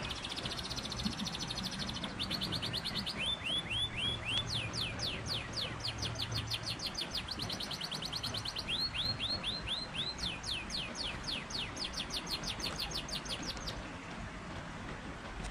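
A small songbird singing fast trills of about ten sweeping notes a second, several series one after another, each at a different pitch.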